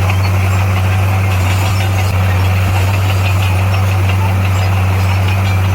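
Heavy diesel engine of earthmoving equipment running steadily with a constant low hum.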